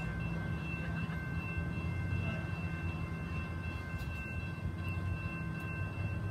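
Amtrak diesel passenger train running into the station: a steady low rumble with a few faint steady high tones above it.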